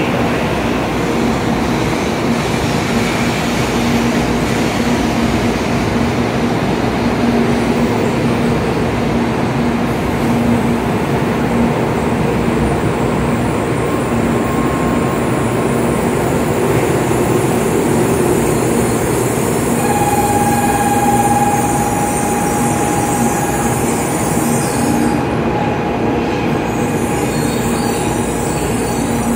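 N700A Shinkansen train pulling in alongside the platform and slowing to a stop, with steady running and wheel noise. A steady whine joins it about twenty seconds in as it draws to a halt.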